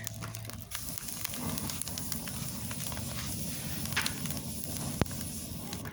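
Wood campfire burning with sharp crackles while compressed air from a compressor hose is blown into it, a steady rushing that comes in about a second in.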